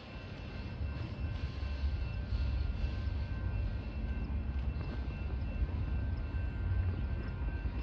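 BNSF freight train rumbling past in a steady deep rumble, with a faint steady high ring on top, just after its horn has died away.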